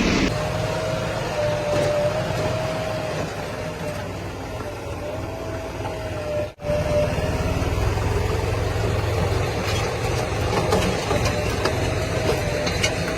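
Heavy diesel engine running steadily, with a low rumble and a wavering whine over it. The sound breaks off abruptly about six and a half seconds in and picks up again at once.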